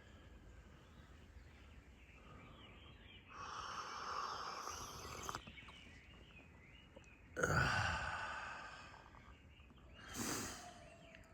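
Three separate bursts of rushing, breath-like noise over a faint outdoor background. The second starts suddenly, is the loudest, and fades out over about a second and a half.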